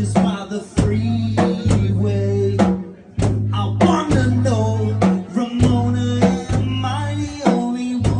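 A rock band playing live: a steady bass line, drum kit and electric guitar, with singing.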